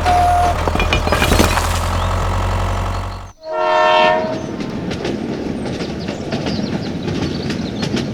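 A steady mechanical hum that cuts off after about three seconds, followed by a short horn blast and then a steady rumbling noise.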